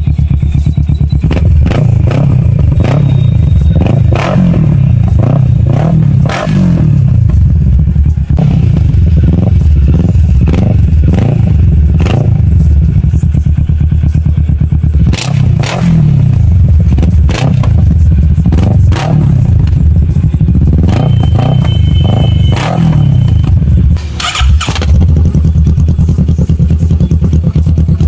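Kawasaki Ninja 650's parallel-twin engine running loudly through aftermarket exhausts, revved up and down over and over.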